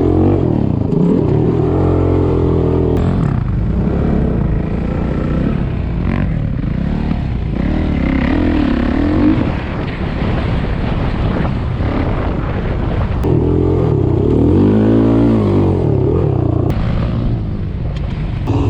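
Off-road single-cylinder engine running under way, its pitch rising and falling repeatedly as the throttle is worked, over a steady rush of riding noise.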